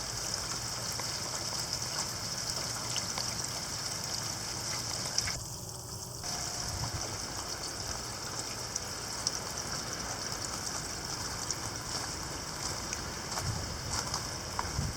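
Rainwater gushing and splashing steadily during a heavy downpour, dipping briefly about five and a half seconds in.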